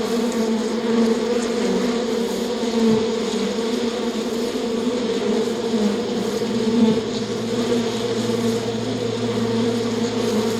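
A swarm of flying insects buzzing steadily, many wings humming together with a slight waver in pitch.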